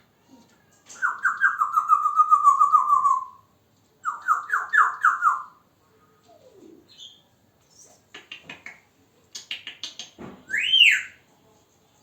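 African grey parrot vocalizing on its own: two fast runs of pulsed notes, the first slowly falling in pitch, then a few clicks and a loud whistle that rises and falls back near the end.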